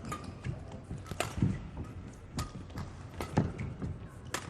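Badminton rackets striking the shuttlecock in a rally, a sharp crack about once a second, with players' footsteps on the court in between.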